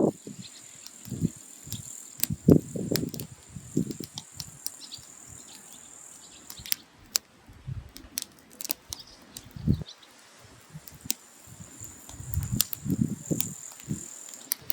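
Firewood burning in a mangal, crackling with irregular sharp pops and snaps. A few soft low rushes of sound come and go.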